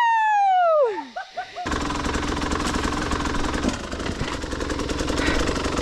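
A long, high-pitched call slides down in pitch and ends about a second in. Then, from just under two seconds in, a dirt bike's engine runs with a rapid, rattling pulse.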